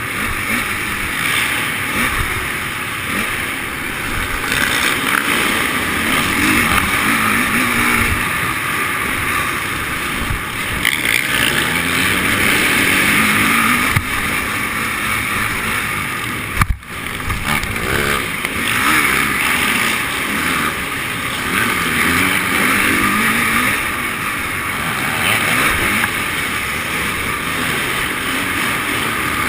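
Motocross bike engines running and revving up and down over and over, with a short gap about 17 seconds in.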